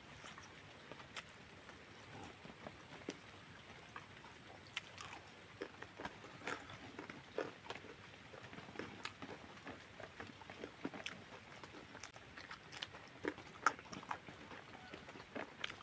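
Close-miked eating sounds: a person chewing roast pork and rice, with irregular wet clicks and smacks of the mouth.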